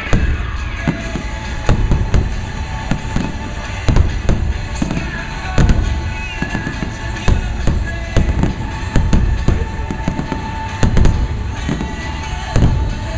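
Fireworks bursting overhead in quick, irregular succession, many sharp bangs in a row, with music playing underneath.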